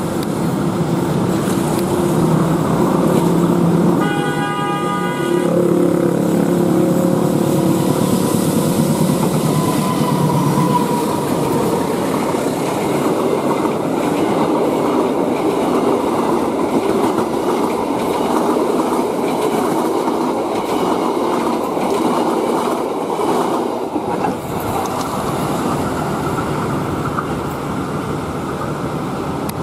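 A KAI diesel-electric locomotive approaches with its engine running and sounds one horn blast of about a second and a half, about four seconds in. Its passenger coaches then roll past close by with a steady rumble and the clack of wheels over the rail joints, easing a little near the end as the train moves away.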